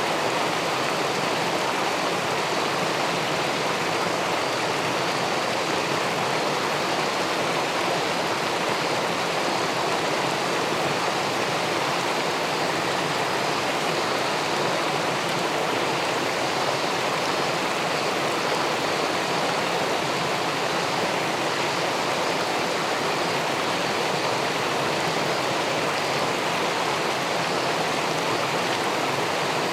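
River water pouring over a small weir and rushing into the pool below: a steady, even wash of water noise with no change.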